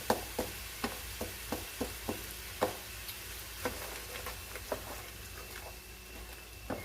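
Julienned peppers and onions sizzling in a frying pan as they are stirred. A utensil clacks against the pan about two to three times a second, with fewer clacks near the end.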